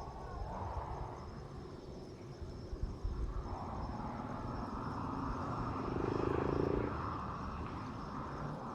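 Outdoor ambience: a low steady rumble with insects chirring in a high, even drone, swelling briefly about six seconds in.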